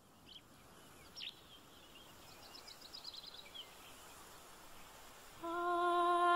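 Faint outdoor ambience with a few short bird chirps and a quick chirping trill. About five seconds in, a voice begins humming one long steady note, the start of a sung music track.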